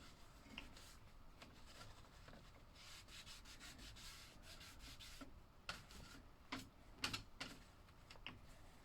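Faint rubbing and scrubbing as the metal contacts of a slot car set are wiped clean, then several light clicks and taps in the second half.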